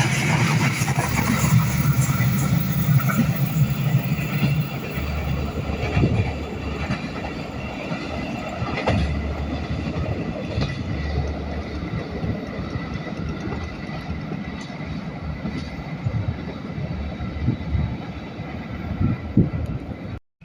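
A train passing close by, its wheels rumbling along the rails with scattered knocks, loudest at the start and easing off. It cuts off suddenly near the end.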